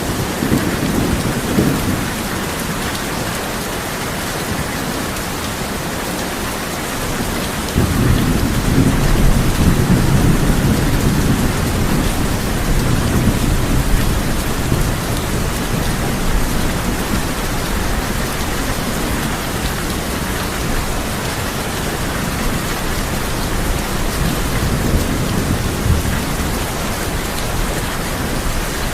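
Steady heavy rain drumming on a tin roof, with a deep rumble of thunder that starts suddenly about eight seconds in, peaks over the next several seconds and slowly rolls away.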